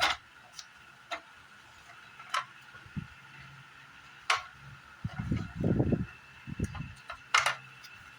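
Irregular sharp clicks and taps of tools and parts being handled during air-conditioner disassembly, about six in all. A low rumbling thud of about a second comes just past the middle, over a faint steady high hum.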